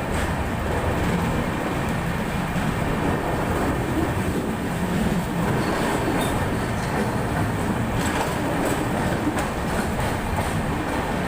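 Netravati Express passenger train running along the track: a steady rumble with a few faint clicks from the wheels.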